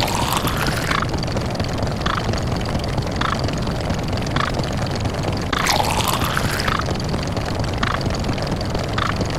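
A stack of sound effects fired by a fast-running number counter. The lowest digits' effects repeat so fast that they blur into a dense, steady noise. A short effect repeats about once a second, and a longer effect with a falling pitch sounds twice, about five and a half seconds apart.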